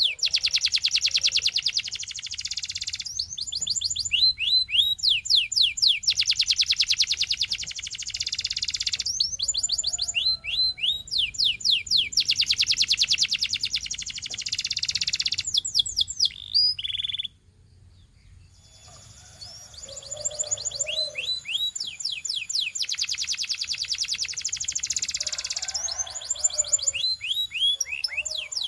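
Canary singing: fast trills and rolls of rapidly repeated notes mixed with short falling whistled phrases. The song cuts off suddenly for about a second about two-thirds of the way through, then resumes.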